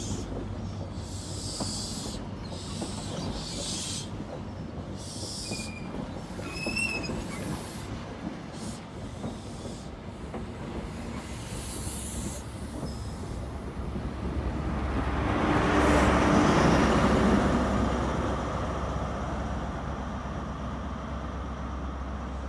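High Speed Train of Mark 3 coaches and Class 43 diesel power cars rolling slowly past, with brief high wheel squeals. It builds to its loudest about two-thirds of the way through as the rear power car's engine passes, then fades as the train pulls away.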